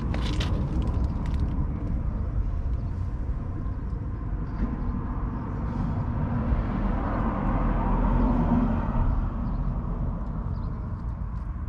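John Deere 6120M tractor's 4.5-litre four-cylinder diesel engine running with a steady low rumble. It grows louder about halfway through, then eases off again.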